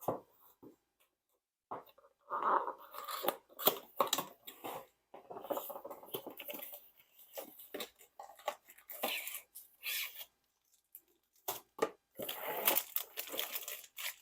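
Sealed packaging of a diamond painting kit being cut and torn open, with crinkling and rustling in irregular bursts and a couple of short pauses.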